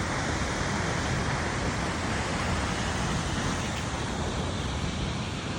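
Steady rushing of a large waterfall, the Düden falls, with water pouring down continuously.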